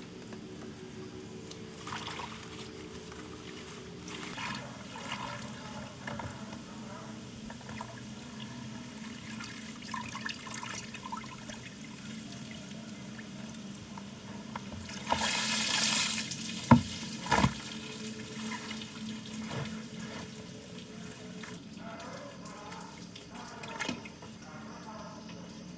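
Water splashing and trickling, with a louder rush of water about fifteen seconds in, followed by two sharp knocks.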